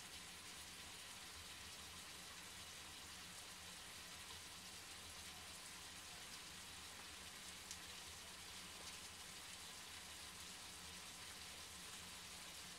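Chicken pieces in a dark sauce with onions frying gently in a pan: a faint, steady sizzle with small scattered crackles.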